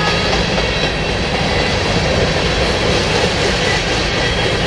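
A train passing close by with a steady, loud rumbling rush of wheel and rail noise and a few faint high tones above it.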